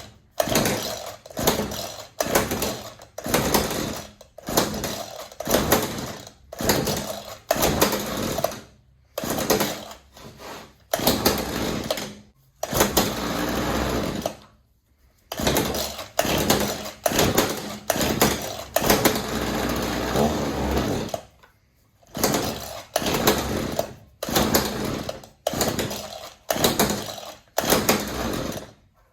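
Shindaiwa two-stroke hedge trimmer being pull-started over and over, its recoil starter yanked about once a second. The engine catches and runs briefly twice, once near the middle and once for a couple of seconds after, but does not keep running: the owner takes it for a carburettor that needs pulling apart and cleaning.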